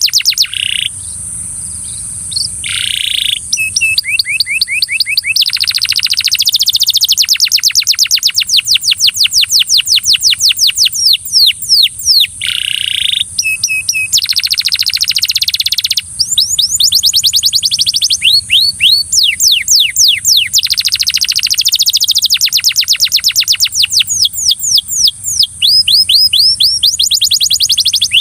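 Belgian canary singing: long runs of rapid repeated notes and rolling trills, changing pace and pitch from phrase to phrase, with short breaks between phrases.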